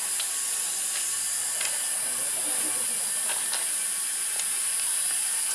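Steady high hiss of steam from the CK124 steam locomotive standing before it starts, with a few faint clicks.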